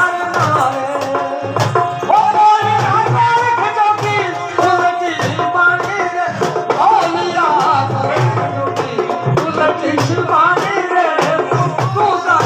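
Rajasthani folk devotional music: a hand-drum rhythm under a bending melodic line.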